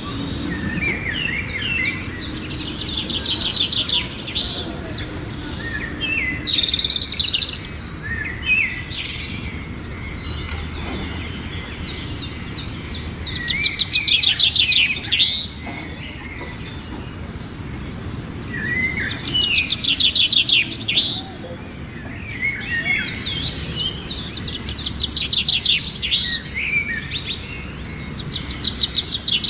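Myna calling: repeated bursts of fast chattering notes mixed with whistles and squawks, each burst lasting a second or two and coming again every few seconds, over a low steady background rumble.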